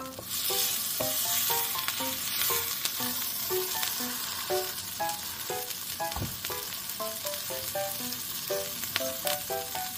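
A cheese-and-meat taco frying in hot oil in a nonstick pan, sizzling steadily, while a wooden spatula folds and presses it; a soft low bump about six seconds in.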